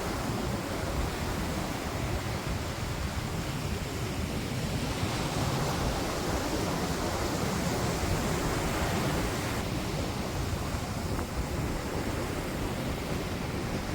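Steady wind blowing across the phone's microphone, with a constant rushing of nearby water.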